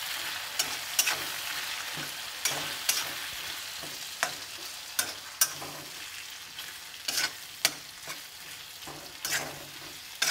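Potatoes and ground spices frying in mustard oil in an iron kadhai while being stirred. A steady sizzle fades slowly, with sharp, irregular scrapes and knocks of the stirring utensil against the pan.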